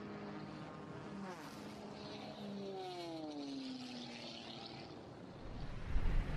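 Propeller aircraft engines droning, with a steady low tone and a second engine whose pitch falls sharply from about three seconds in as it passes by.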